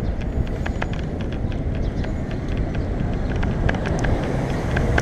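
Wind rumbling on the microphone and road and traffic noise while riding a bicycle in city traffic, with scattered small clicks and rattles.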